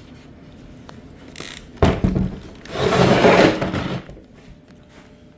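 A sharp knock, then about a second and a half of scraping and rubbing, as of hands or a tool working against the machine's parts.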